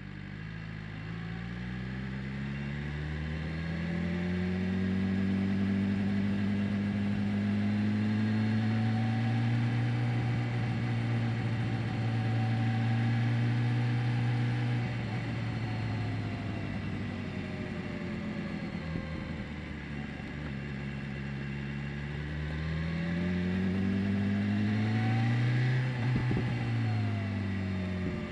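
BMW S1000R inline-four engine pulling away, rising in pitch and then holding a steady pitch for several seconds before easing off. It rises again later, with a sharp click just before the revs drop near the end.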